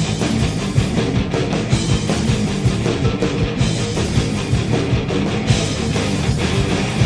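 A live rock band playing loud distorted electric guitars, bass and a drum kit, an instrumental passage with no singing.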